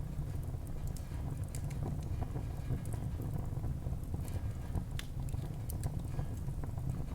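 A wood fire burning in a fireplace: irregular crackles and sharp pops over a steady low rumble of the flames.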